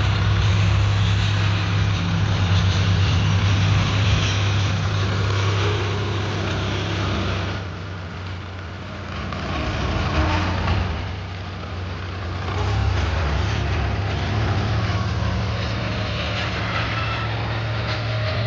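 Sonalika tractor's diesel engine running steadily while pulling a plough. Its level drops twice, about 8 and 11 seconds in, then comes back up.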